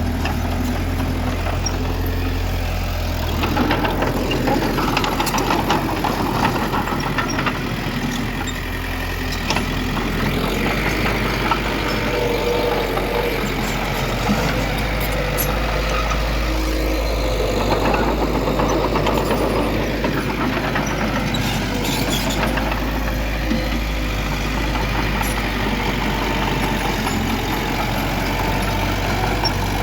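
Heavy diesel earthmoving machinery running steadily, its engine note shifting up and down, with a few short sharp knocks.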